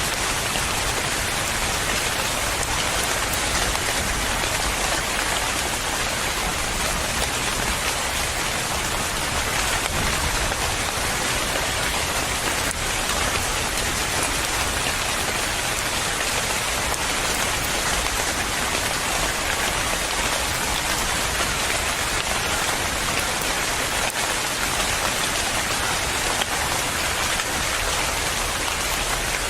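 Steady rain falling, a continuous even hiss of drops on a surface with no change or distinct events.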